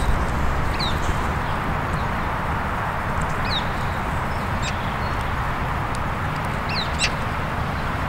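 Steady outdoor background noise with a few short, high, falling bird chirps, one about a second in, one midway and one near the end.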